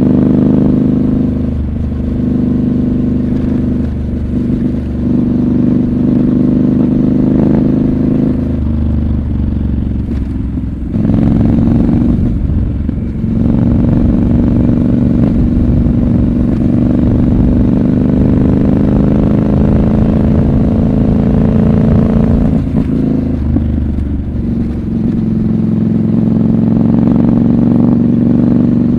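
Triumph Scrambler 1200 XC's 1200 cc parallel-twin engine pulling on the road, its note rising and falling with the throttle. It gets suddenly louder about a third of the way in as the throttle opens, then climbs steadily in pitch, eases off briefly, and picks up again near the end.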